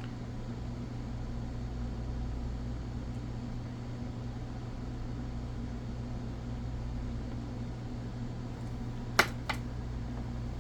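A steady low mechanical hum, like a room fan, with two sharp clicks about nine seconds in, a third of a second apart.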